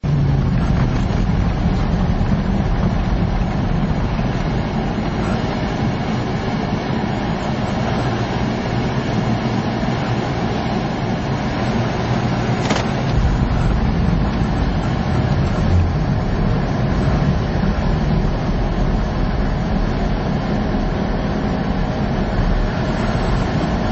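A motor vehicle driving: steady engine drone and road rumble with no change in pace.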